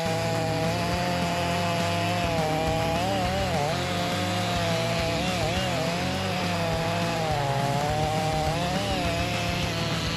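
Chainsaw running under load as it cuts wood. The engine note stays steady but wavers and dips briefly several times as the chain bites.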